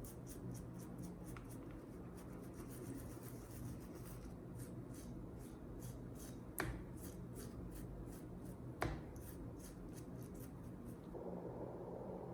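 Quick repeated rubbing strokes, about three a second, over a low steady hum, with a sharp knock about two-thirds of the way through and another about two seconds later.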